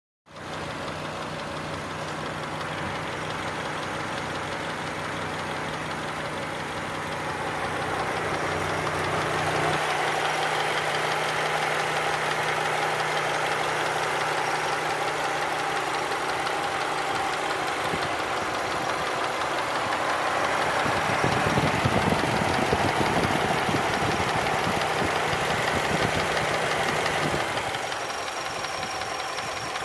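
Subaru EJ254 2.5-litre flat-four engine running, with a knocking sound that the owner is unsure about: a valve, a fault in the fourth cylinder, or a knock sensor to be replaced first. The engine gets louder partway through and eases near the end.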